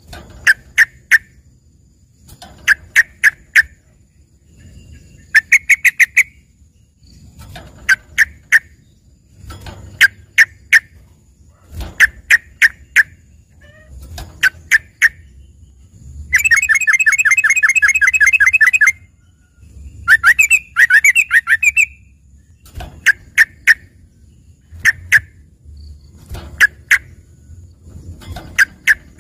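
A yellow-vented bulbul (trucukan) singing in short bursts of three to five quick notes every couple of seconds. There is a longer rapid trill a little past halfway and a jumbled phrase just after it. It is a song filled with learned phrases said to sound like a greater green leafbird.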